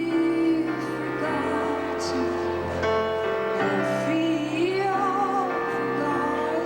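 Live band music with a singer: held chords under a sung line that wavers and slides in pitch, recorded through a VHS-C camcorder's microphone.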